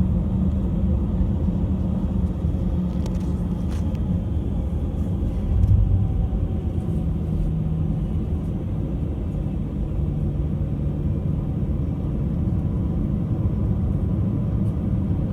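Steady low rumble of an Airbus A319 airliner heard from inside the cabin, with one dull thump about six seconds in.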